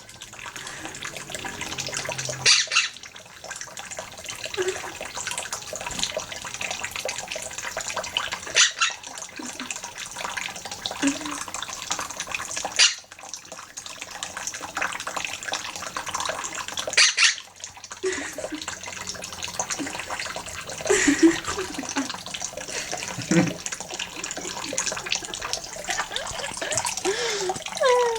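Water running steadily from a tap, with short louder splashes every few seconds as a quaker parrot bathes in it.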